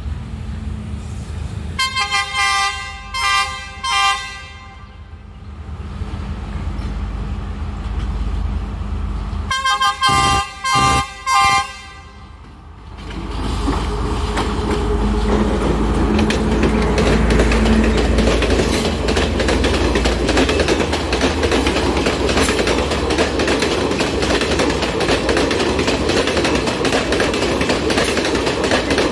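Podi Menike Express train's multi-tone horn sounding its 'kaputu kak kak' (crow-call) pattern, a run of short rhythmic blasts about 2 s in and again about 10 s in. From about 13 s the train arrives and passes close by: a loud rumble of engine and running gear, with the wheels clattering over the rail joints.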